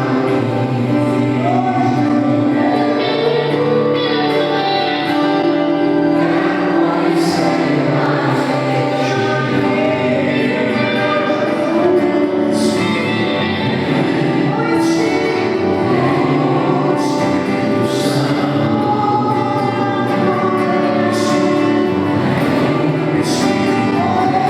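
Gospel worship song: the praise team and congregation sing together over band accompaniment, with a few sharp high crashes along the way.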